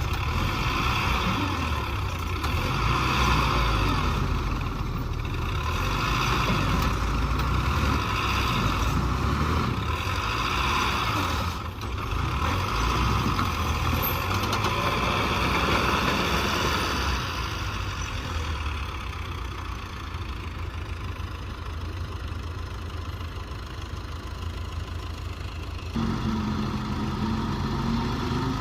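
Diesel engines of heavy earthmoving machinery running steadily at work. The sound shifts abruptly about halfway through and again near the end.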